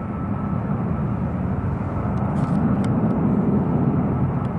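Jet airliner engines running: a steady low rumble that swells slightly toward the end, with a faint steady whine above it.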